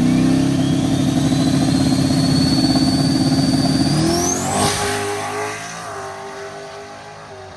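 Race truck engine held at high revs under a high whine that rises slowly. About four seconds in the whine sweeps up sharply and the engine note climbs, then the engine drops off and fades away.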